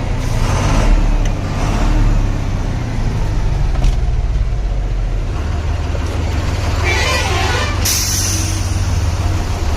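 Diesel cargo truck engine idling with a steady low rumble. About eight seconds in there is a brief, sharp hiss of released air.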